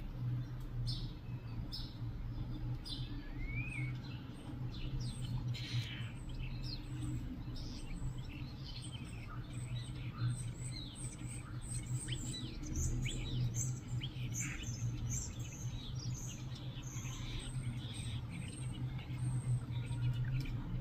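Small wild birds chirping, with many short, overlapping high calls that grow busier in the second half, over a steady low hum.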